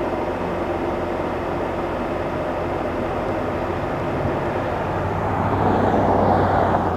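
Steady roar of wind and rain with a low hum underneath, swelling louder about five and a half seconds in. It is taken to be the large rain-wrapped tornado, still audible through the rain.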